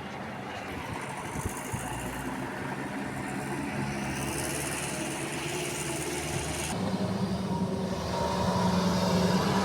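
Diesel engine of heavy construction machinery running steadily, growing louder toward the end.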